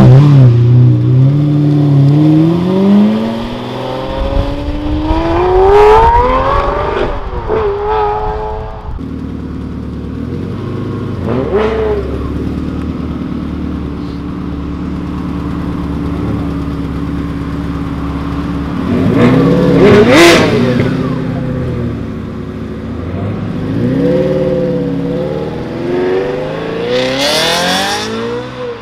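A Lamborghini Murciélago's V12 accelerating away, its revs climbing for several seconds. After a break, a Ferrari 360 Spider's V8 runs steadily, is revved sharply once about twenty seconds in, and is revved a few more times near the end.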